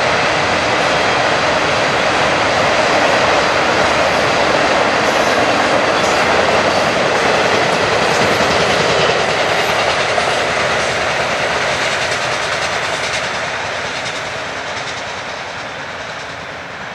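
Freight train rolling past with its wheels running on the rails, loud and steady, then fading gradually over the last several seconds as it moves away.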